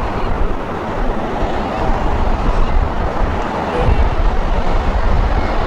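Low, steady rumble of a jet airliner's engines as it approaches on final.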